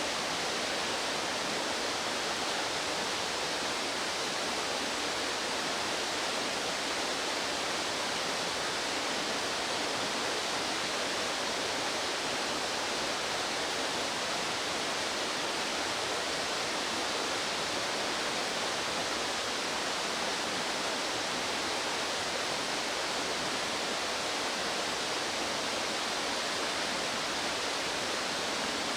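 Rushing water of a fast stream, a steady, even rush with no breaks.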